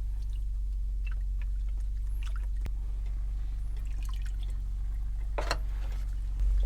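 Beef broth going into a pot of chili on the stove: small drips and splashes of liquid, with one louder splash about five seconds in, over a steady low hum.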